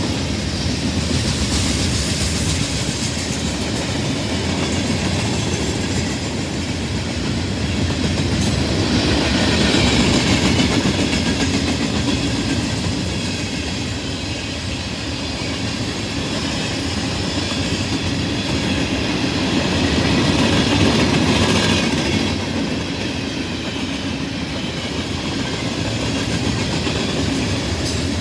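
Freight train cars rolling past, their wheels clattering over rail joints in a continuous clickety-clack that swells and eases a little in waves.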